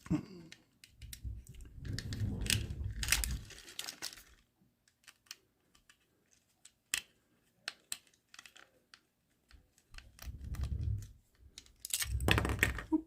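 Small plastic clicks and rustling handling noise as a tiny plastic micro RC car's battery compartment is unscrewed and opened with a small screwdriver. There are scattered light ticks, and scraping stretches about a second in and again near the end.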